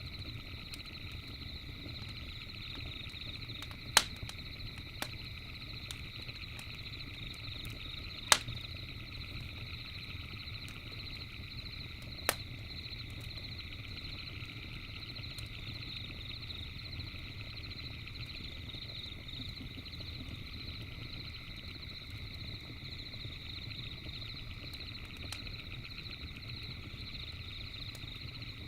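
Campfire crackling with a few sharp pops, the two loudest in the first third, over a steady high chirping chorus of night creatures and a low even rumble.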